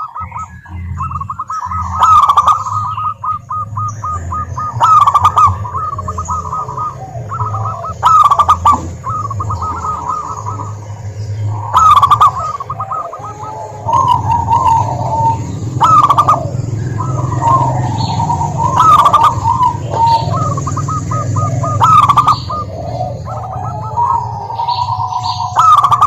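Zebra doves cooing: loud, rattling, staccato trilled coos that repeat about every three seconds, over a steady low hum.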